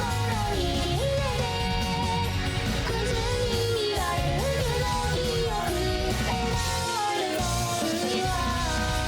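A rock-style song with band backing and a synthesized singing voice: an UTAU voicebank run through RVC voice conversion.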